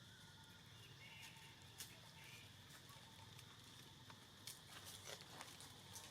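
Near silence: faint room tone with a few soft clicks and taps, one about two seconds in and a small cluster near the end.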